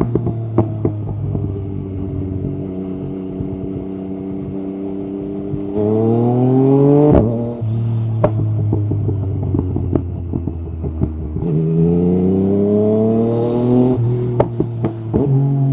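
Yamaha MT-09 SP inline-three engine through an Akrapovic carbon exhaust, running at steady revs, then pulling up in pitch twice under acceleration and dropping back each time. Sharp pops crackle from the exhaust on the overrun, most of them near the end.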